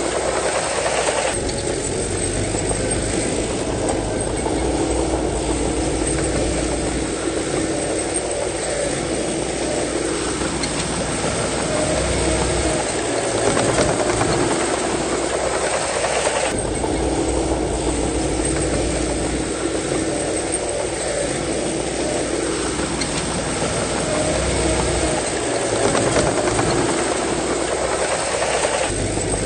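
Bulldozer's diesel engine running steadily with a low rumble. Its note shifts in a cycle that repeats about every fifteen seconds.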